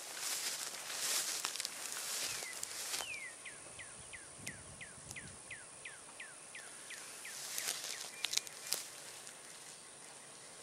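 A bird singing a run of about fifteen short down-slurred whistles, roughly three a second, after a few seconds of rushing outdoor noise. A few sharp clicks come near the end.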